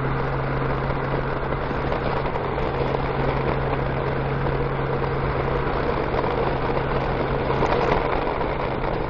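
Honda Gold Wing F6B's flat-six engine running at a steady pitch under an even rush of wind and road noise on the rider's microphone.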